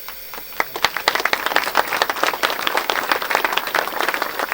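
An audience applauding: scattered claps about half a second in quickly build into steady clapping from many hands.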